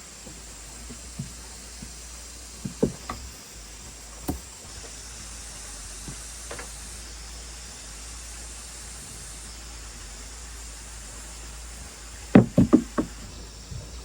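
Scattered sharp knocks over a steady low hiss, ending in a quick run of four or five louder knocks near the end.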